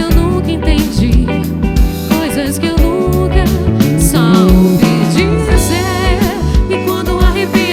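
Band music with a steady drum beat and bass under a gliding melodic line.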